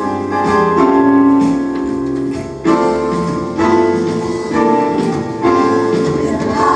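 Instrumental music led by a keyboard, with sustained chords over a bass line and a new chord struck about once a second.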